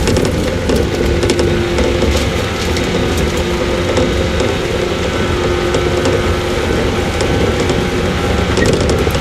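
115 series electric multiple unit running between stations, heard from inside its motor car KuMoHa 115-318: a steady rumble of wheels on rail and MT54 traction motors, with a faint hum and scattered clicks.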